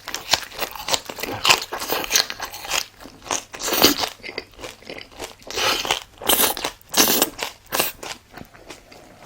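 Close-up crunching and chewing of crunchy food, a fast irregular run of sharp crunches.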